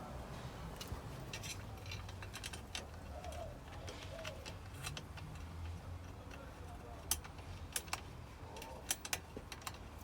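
Irregular light clicks and taps, a few sharper ones in the second half, over a low steady hum.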